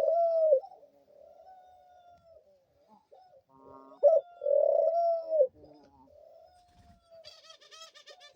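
Pet dove cooing: a loud coo at the start, softer drawn-out coos, and another loud coo about four seconds in. The owner takes the cooing for pining for a mate.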